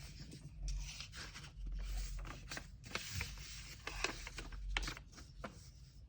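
Hands handling packing materials: paper and tape rustling and scraping in short strokes, with scattered light clicks.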